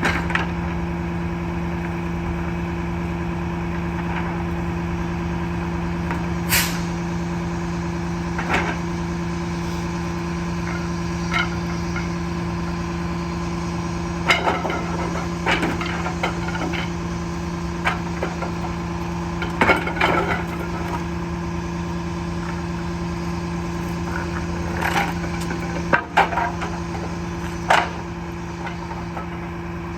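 Split-body garbage truck running with a steady hum, with scattered clanks and knocks, a cluster of them around the middle and a few near the end.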